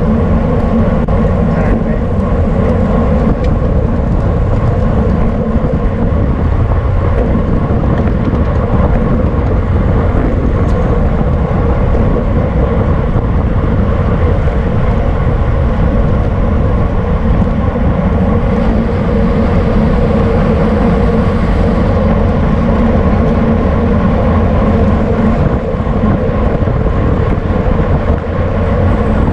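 Steady, loud wind rush on the microphone of a camera riding along in a bicycle race, a constant low rumble with a faint steady hum from the bike.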